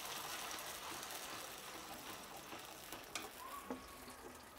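Ground red-chilli chutney paste frying in hot mustard oil in a steel kadhai, a faint steady sizzle that slowly dies down as a spoon stirs it, with a couple of light clicks about three seconds in.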